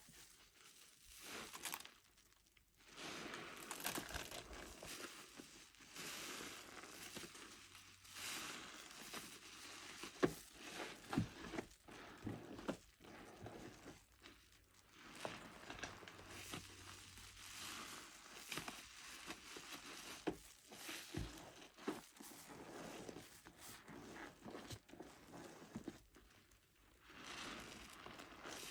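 Sponge loaded with car wash soap and Zote soap flakes being squeezed and worked by hand, in repeated wet squishes a second or two long with short pauses between them.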